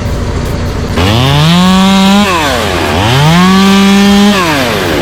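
Chainsaw engine revved up twice: each time the pitch climbs quickly, holds for about a second, then falls back. A low rumble fills the first second before the first rev.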